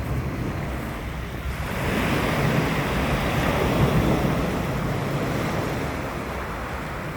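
Sea waves breaking and washing on the shore, one wave swelling up about two seconds in and easing off, with wind buffeting the microphone.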